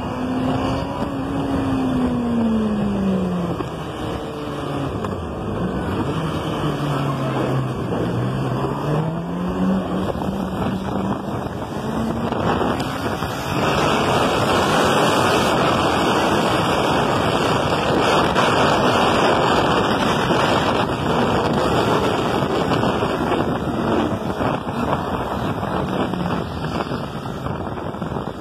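A motor engine running at speed, its note slowly rising and falling in pitch over several seconds. About halfway through, a louder rush of wind or water noise sets in and covers the engine.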